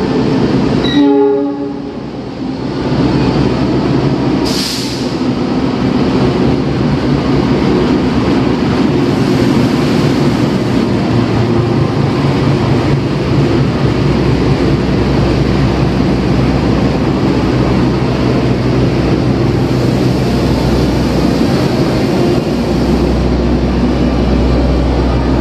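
Diesel-electric locomotive hauling a passenger train slowly into a station platform, engine rumbling and coaches rolling over the rails. A horn sounds near the start, and there is a brief hiss about four and a half seconds in.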